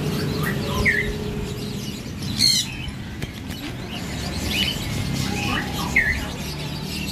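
A handful of short bird chirps, spaced a second or two apart, over a steady low background hum.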